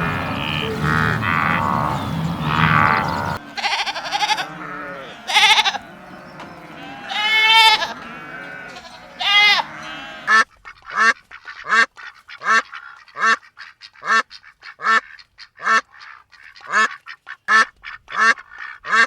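Poultry calling: a jumble of calls for the first few seconds, then single pitched calls. About halfway through this becomes a steady run of short, sharp calls, about two a second.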